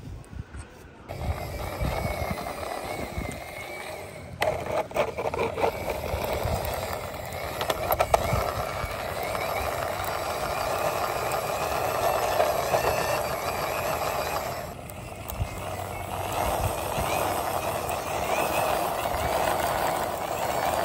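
Toy vehicle wheels rolling along a hard wall top as the toys are pushed by hand: a steady rough rolling noise that starts about a second in, with a few clicks and knocks, easing off briefly about three-quarters of the way through before starting again.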